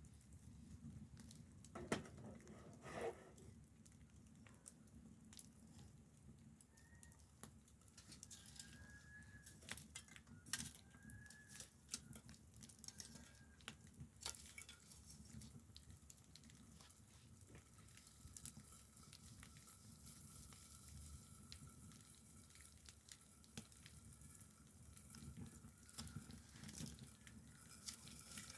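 Faint scattered crackles and pops of a wood campfire over a low rumble, with a few faint bird chirps.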